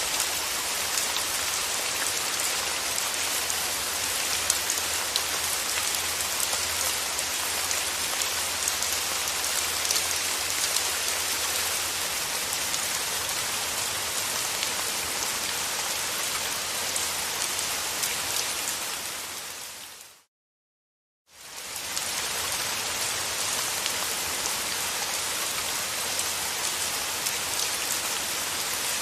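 Steady rain falling, with fine drop taps through it. About twenty seconds in it fades out to a second of silence, then fades back in.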